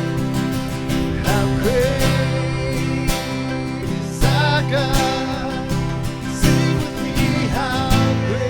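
Live worship music: strummed acoustic guitar accompanying sung phrases of a praise song.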